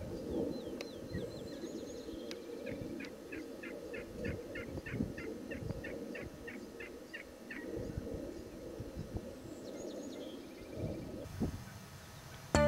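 Wild turkeys and other birds calling in the woods, including a steady run of about fifteen evenly spaced calls lasting several seconds.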